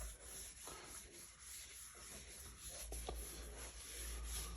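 Faint rubbing of a trim-coat wipe over the plastic of a motorcycle luggage case, with a couple of small clicks about three seconds in.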